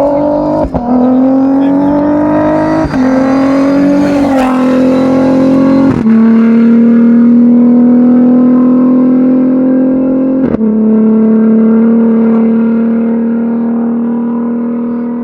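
Rally raid car engine accelerating hard through the gears. The pitch rises and breaks at each upshift several times, then holds steady at speed and slowly fades as the car pulls away.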